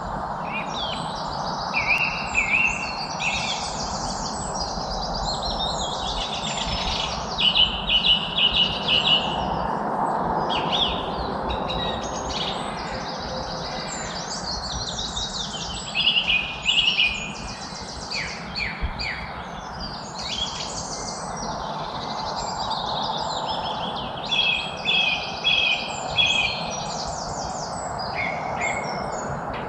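Several songbirds singing and chirping in quick, repeated phrases over a steady background hiss, like distant wind or traffic. The loudest trills come about 7–9 s in, around 16–17 s, and around 25–26 s.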